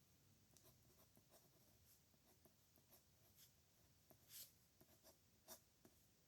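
Pen nib scratching across paper in short, irregular strokes while writing characters, faint, with a couple of louder, longer strokes near the end.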